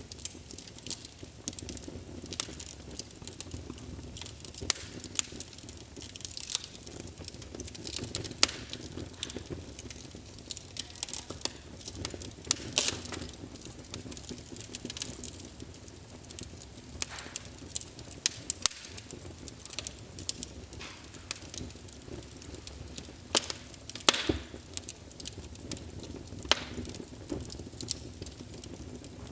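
Wood fire burning in a fireplace, crackling and popping with frequent sharp irregular snaps over a low steady rush of flame.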